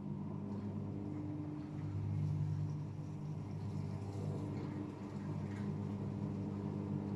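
AEG Öko-Lavamat 76910 washing machine's inverter-driven three-phase motor turning the drum, a steady low hum of several tones that swells and dips slightly.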